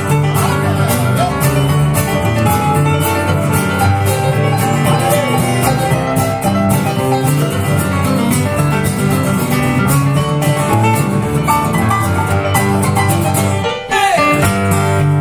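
Live country band playing an instrumental break, led by plucked guitar over a steady bass line, with a short drop in level near the end.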